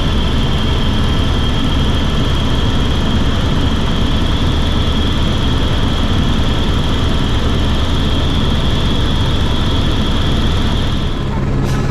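Helicopter engine and rotors running steadily, a loud rumble with a high, steady whine; near the end the whine stops and there is a single click.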